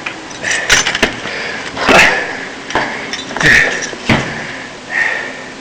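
A string of about five irregular knocks and clatters with scraping and rustling between them, the loudest about two seconds in.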